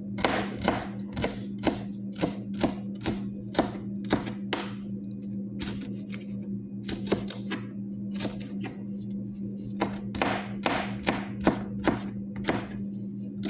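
Knife chopping on a cutting board in quick, even strokes at about two a second, pausing briefly around the middle. A steady low hum runs underneath.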